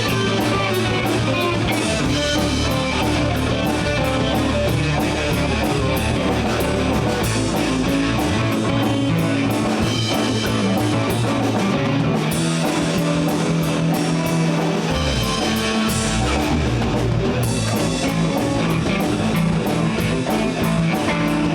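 Live blues band playing an instrumental break: electric guitar solo over bass and drum kit keeping a steady beat.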